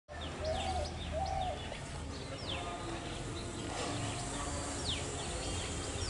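Birds calling: short, high whistles that drop sharply in pitch, several in quick succession in the first second, then single ones every couple of seconds. Two short, lower wavering notes come near the start, over a steady low hum.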